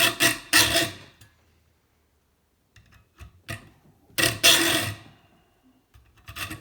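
Hand saw cutting the hard metal sheath of a kettle heating element, going slowly. It makes a quick run of rasping strokes at the start, then a pause with a few light clicks, one longer stroke about four seconds in, and rapid strokes again near the end.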